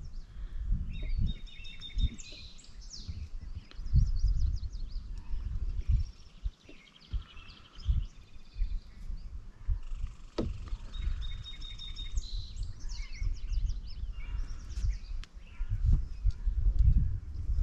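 Small songbirds singing, with a fast rattling song phrase about a second in that comes again about twelve seconds in and lighter chirps between, over a gusty low outdoor rumble.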